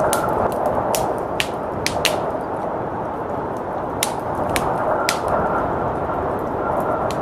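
Wood fire crackling, with about ten sharp irregular pops, over a steady rushing noise of blizzard wind.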